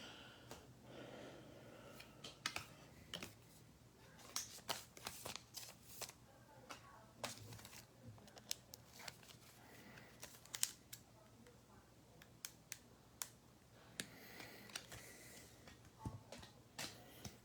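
Faint clicks and rustles of trading cards and card packs being handled and sorted, dozens of short irregular ticks.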